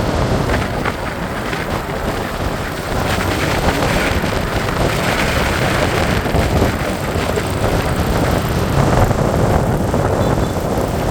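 Steady wind rushing over the microphone mixed with the noise of surrounding street traffic, heard while riding through city streets.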